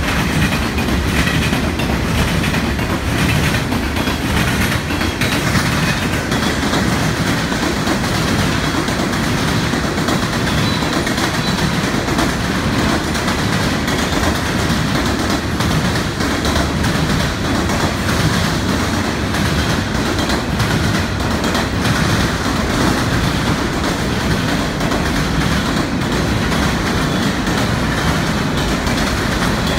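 A long freight train of boxcars, covered hoppers and tank cars rolling past at close range: a steady rumble of steel wheels on the rails with clickety-clack over the rail joints.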